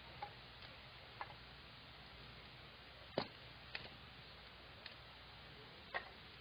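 Campfire crackling: irregular sharp pops and clicks from the burning wood over a faint steady hiss, the loudest pop about three seconds in and another near the end.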